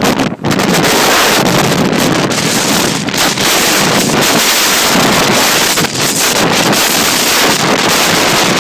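Hurricane-force wind buffeting the microphone: a loud, continuous rush of wind noise that drops out for a moment just after the start.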